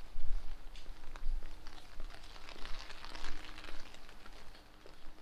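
Rain pattering and ticking on hard surfaces, with gusts of wind rumbling on the microphone, heaviest about the first second.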